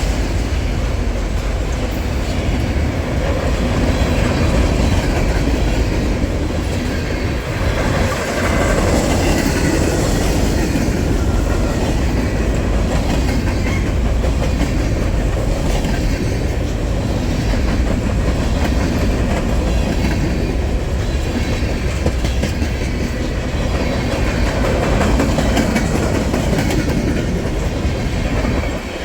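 Freight train cars rolling past close by: steady rumble with the clickety-clack of wheels over rail joints.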